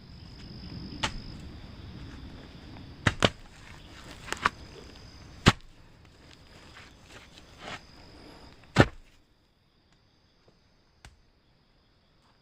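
Irregular sharp knocks and cracks, about eight in the first nine seconds, over a low rumbling rustle. The rustle stops suddenly about nine seconds in, leaving steady high insect trilling.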